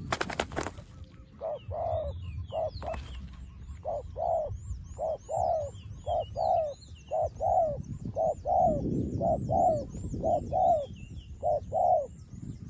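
A dove cooing over and over, short low notes mostly in pairs. A steady run of high, quick chirps, about two a second, sounds above it, and a few sharp knocks come in the first second.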